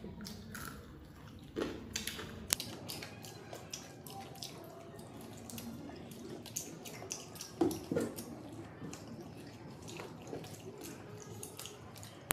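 Mouth sounds of people eating up close: wet chewing and lip smacking, heard as many short clicks, some louder than others.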